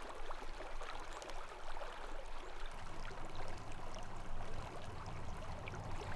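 Small mountain creek flowing over rocks with a steady babble.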